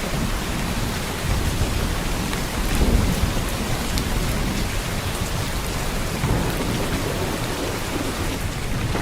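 Heavy downpour of rain: a steady, dense hiss with a few sharp drop ticks, under a low rumble that swells about three seconds in.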